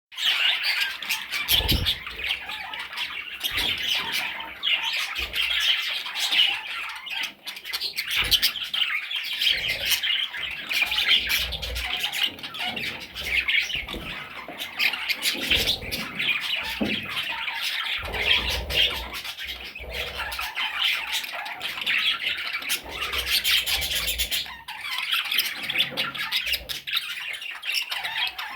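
Parrot chicks squawking and chirping without a break, a raspy chorus of overlapping calls, with occasional low bumps.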